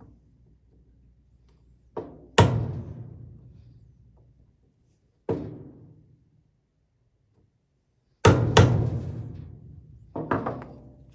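Hammer strikes, about seven sharp knocks in uneven groups (two, one, two, two), each ringing out for a second or so.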